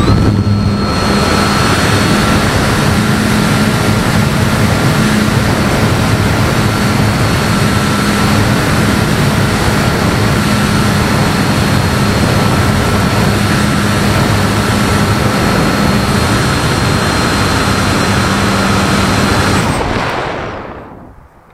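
Motor and propeller of a Bird of Time RC sailplane running steadily at high power, a constant whine over loud wind rush on the onboard camera's microphone; the motor cuts off near the end.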